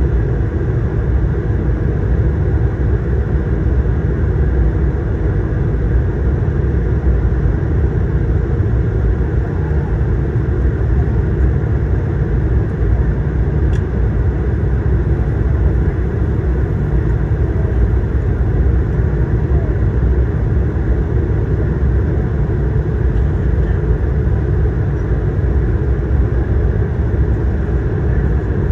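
Steady low rumble of an Airbus A220-300's Pratt & Whitney PW1500G geared turbofans heard inside the passenger cabin.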